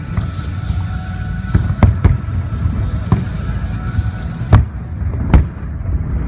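Aerial fireworks shells bursting: about half a dozen sharp bangs, the two loudest about four and a half seconds in and a second later, over a steady low rumble of continuous firing. Music plays faintly underneath.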